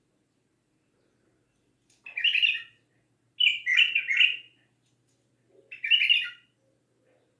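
A bulbul singing three short phrases of whistled notes, each lasting under a second or so, a little over a second apart. The first starts about two seconds in.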